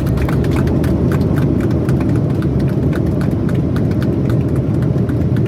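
Loud cabin noise of a Boeing 737 MAX 8 on its ground roll just after landing: a steady deep rumble with quick, regular thumps, several a second, from the wheels running over the runway.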